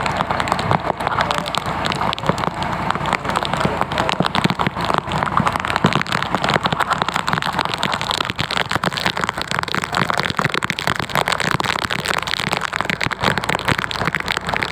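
Steady rain falling on a hard surface: a dense, even crackle of countless drops.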